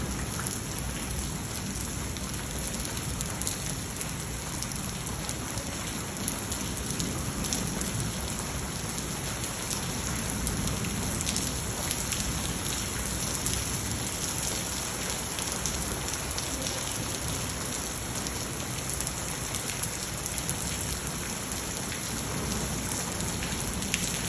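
Heavy rain mixed with hail falling steadily on a wet concrete courtyard, an even hiss dotted with many small ticking impacts.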